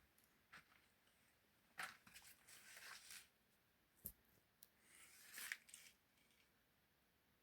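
Near silence with a few faint rustles and crackles, and one sharp click about four seconds in.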